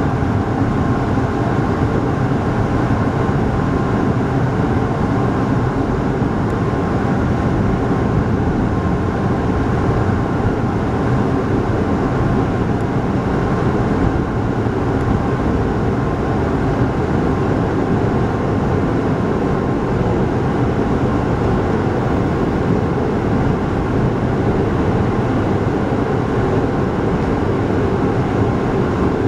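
Steady running noise of a local passenger train heard from inside the carriage: an even rumble of wheels on rails and motors, with no break or change.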